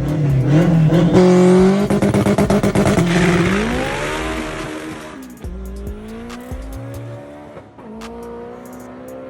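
Performance car engine revving hard, with a rapid stuttering crackle for about two seconds at its loudest, then the revs drop and the engine note climbs steadily again as the car pulls away.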